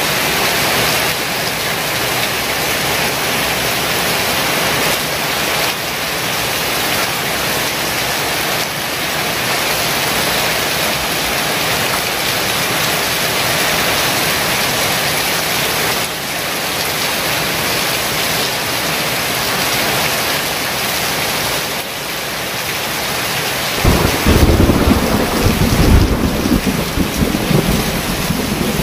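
Heavy rain pouring steadily. Near the end a loud, low rumble of thunder rolls in over the rain.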